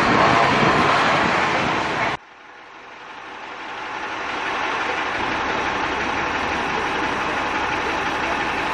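A double-decker bus idling under heavy wind noise on the microphone. About two seconds in, the sound drops out suddenly and then fades back up to a steady idle.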